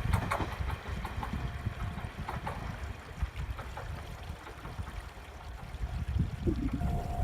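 Low rumble of an Aizu Railway diesel railcar running on the line, with a few faint wheel clicks in the first few seconds. A steady high tone comes in near the end.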